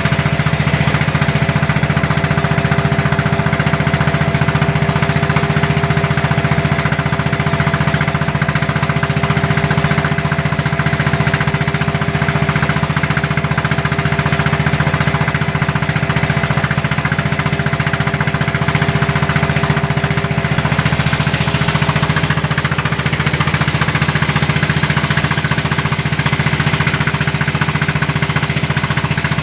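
Engine of a klotok, a small wooden motorboat, running steadily with a fast, even chugging beat.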